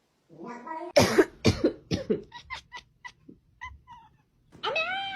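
A cat coughing several times about a second in, followed by a string of short chirping calls, then a meow that rises in pitch near the end.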